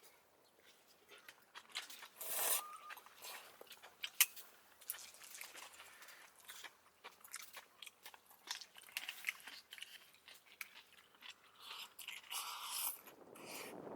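Irregular close-up crunching and clicking, loudest about two and a half seconds in, with a sharp click about four seconds in.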